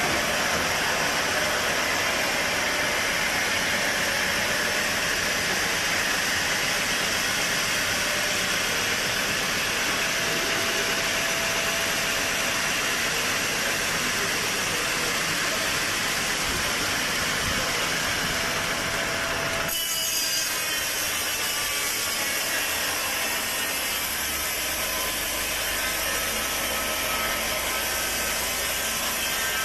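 Sawmill blade cutting steadily through a teak log, a continuous loud rasping hiss. About twenty seconds in the sound changes abruptly, the high hiss dropping away and a steadier machine hum taking over.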